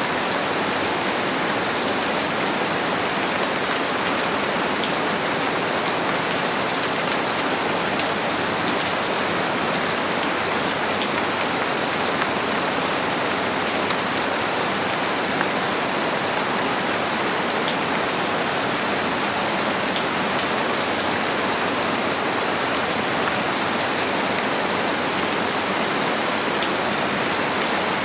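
Rain falling steadily: an even hiss, dotted with faint, sharper drop ticks.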